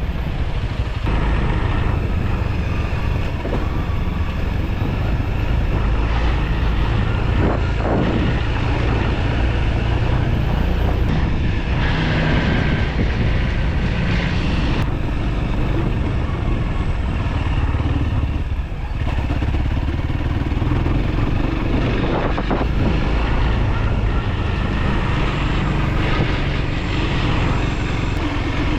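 Motorcycle running at road speed, with engine and road noise making a steady low rumble that dips briefly about nineteen seconds in.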